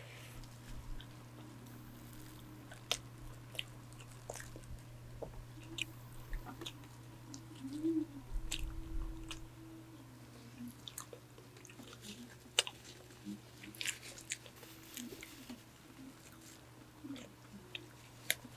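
Close-miked eating sounds of doughnuts: soft bites and chewing with small wet mouth clicks, over the steady low hum of an electric fan.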